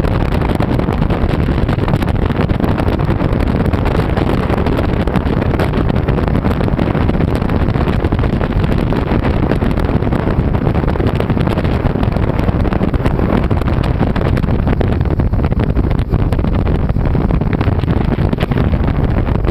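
A motorboat under way: the engine and water noise run loud and steady, with wind buffeting the microphone.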